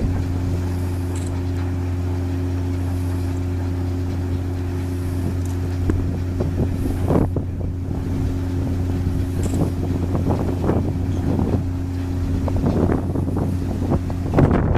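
Ship's engine running with a steady low drone and a few fixed tones above it. From about six seconds in, gusts of wind buffet the microphone over it.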